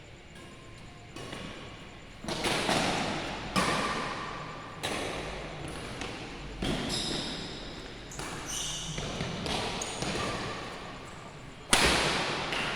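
Badminton rally in an echoing sports hall: sharp racket strikes on the shuttlecock about every second and a half, each ringing out in the hall, then a pause and one more strike near the end.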